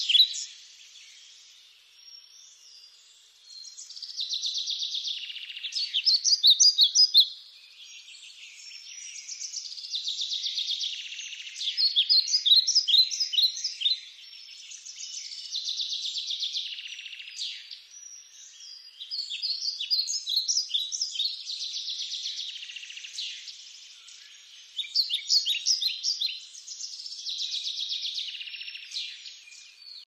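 Small songbirds chirping and twittering. Loud bursts of rapid high chirps come roughly every six seconds, with softer buzzy trilling between them.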